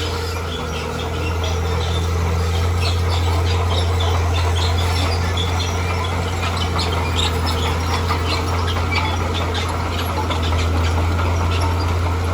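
Bulldozer's diesel engine running steadily under load, with a rapid scatter of high metallic squeaks and clanks from its steel tracks.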